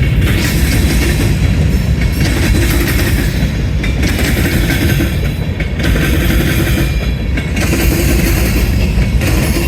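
Freight train rolling past close by, a loud steady rumble of wheels clattering over the rail joints.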